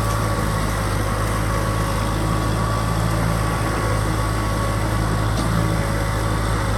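Kubota M6040 SU tractor's four-cylinder diesel engine running steadily, with a steady high whine alongside it, while ploughing a field.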